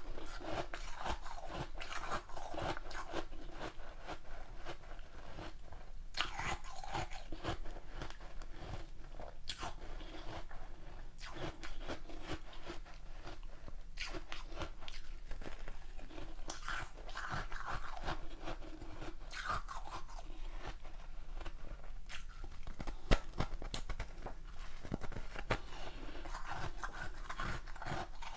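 Crunching and chewing ice, with a dense run of sharp cracks as pieces of a large ice block are bitten and broken between the teeth. One crack about four-fifths of the way through is much louder than the rest.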